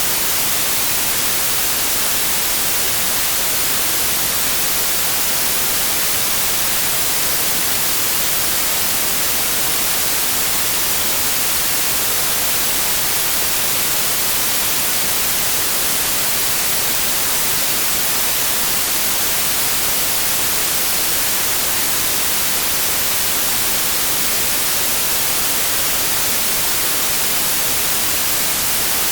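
Pure white noise: a steady, even hiss, unchanging throughout and strongest in the high end.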